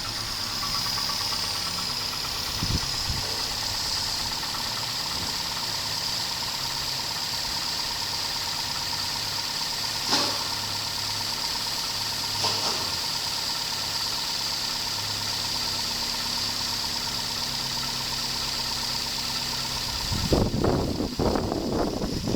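2000 Dodge Neon's 2.0-litre four-cylinder engine idling steadily, with a couple of brief clicks midway. Near the end a louder, rougher rushing noise comes in over it.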